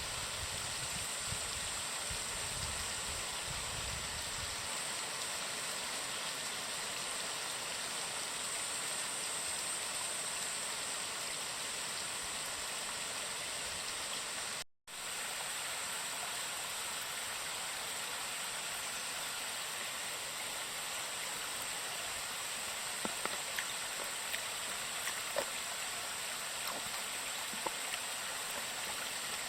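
Steady rush of falling and flowing water from a waterfall and stream, with a low rumble over the first few seconds and a momentary dropout about halfway through.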